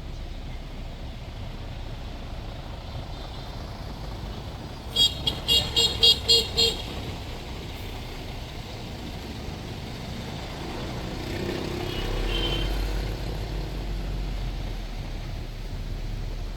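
Street traffic with a vehicle horn beeping about seven short times in quick succession about five seconds in, the loudest sound. A vehicle's low rumble swells later on.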